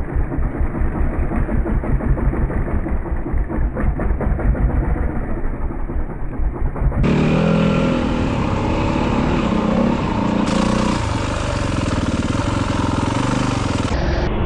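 Yamaha WR250F single-cylinder four-stroke dirt bike engine running while the bike is ridden on a trail, a rapid low pulsing for the first half. About halfway the sound turns suddenly brighter and steadier, with a higher engine note and more rushing noise.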